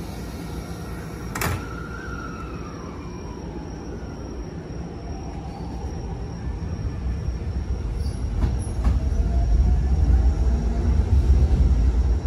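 Toei 10-300 series electric train pulling out of the platform and moving away, with faint gliding motor tones as it gets under way and a sharp clack about a second and a half in. A low rumble builds toward the end.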